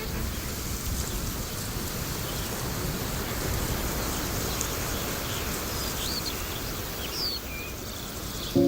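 Steady, noisy outdoor ambience of the African bush, with a few short high chirps, like birds, in the second half.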